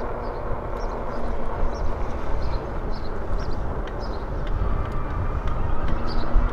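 Wind noise on the microphone while riding an electric bike along a street: a steady low rumbling hiss, with faint short high chirps repeating over it.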